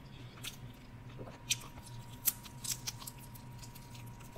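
Close-miked eating sounds of chewing fried shrimp: a few sharp, irregular crisp clicks and crunches, the strongest about halfway in.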